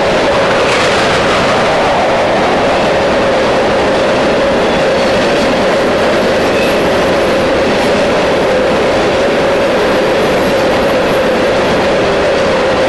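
Freight train rolling past at close range: a loud, steady rumble of the cars' wheels on the rails with some clicking over rail joints and a faint high wheel squeal.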